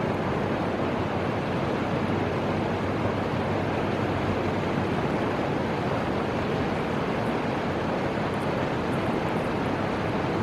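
Fuji River water flowing, a steady rushing noise that holds even throughout.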